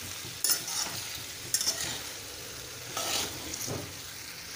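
Okra, onions and green chillies sizzling in oil in a kadai while a spatula stirs them, with about four scrapes against the pan.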